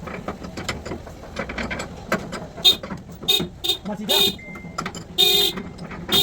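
A run of short knocks and clicks, then a car horn sounding: several short toots from about the middle, then a longer blast near the end.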